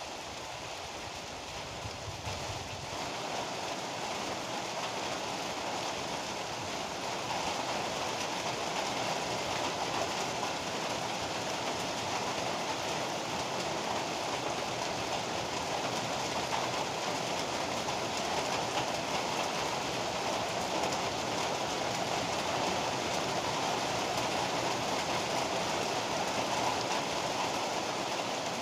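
Heavy rain pouring steadily, an even dense hiss that grows slightly louder over the first several seconds. A low rumble underneath fades out about three seconds in.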